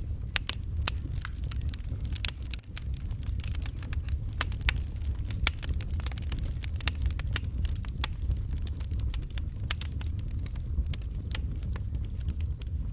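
Wood fire burning in a fireplace, crackling with frequent sharp, irregular pops over a low steady rumble of flame.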